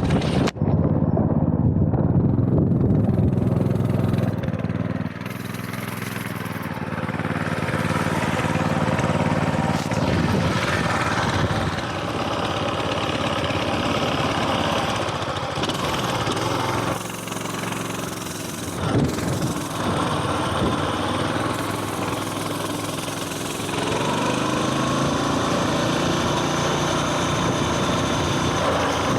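Coleman mini bike's small single-cylinder four-stroke engine running while riding, its note changing as the throttle is opened and eased. There is a brief drop just after the start, and the pitch rises again near the end as it speeds up.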